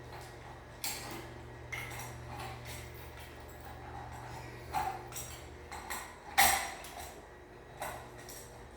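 Scattered metallic clinks and knocks of screws and fan parts being handled while removing screws from a ceiling fan, the loudest about six seconds in. A low steady hum underneath fades out around the same time.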